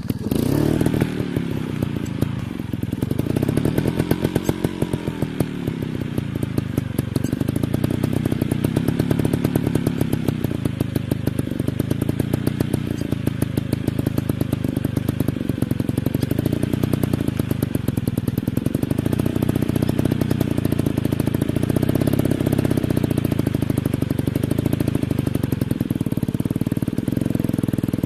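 Off-road dirt bike engine running hard, revving up and down over and over as the throttle is worked, its pitch rising and falling.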